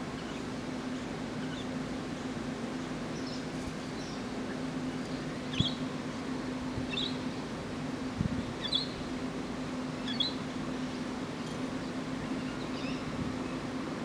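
Short, high bird chirps, about six or seven scattered singly a second or two apart, over a steady low hum, with a couple of soft knocks in the middle.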